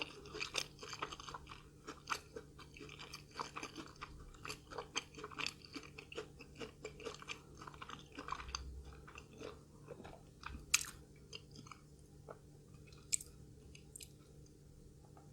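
Close-miked chewing of crunchy fried food, with dense crisp crunches through the first half that thin out to a few sharper clicks in the second half.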